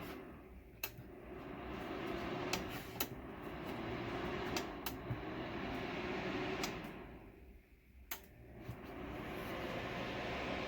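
Steady fan-like hiss with scattered light clicks and knocks, about seven in all; the hiss drops away briefly twice, near the start and about three quarters of the way through.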